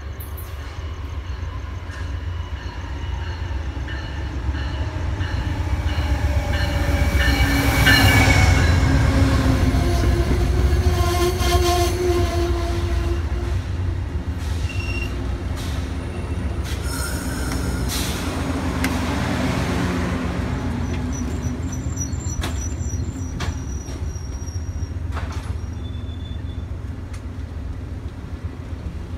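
Amtrak 790 passenger train, hauled by a P42DC diesel locomotive, pulling into the station. The engine and wheels rumble past, loudest about eight seconds in, and high steady wheel and brake squeals sound through the middle as the train slows.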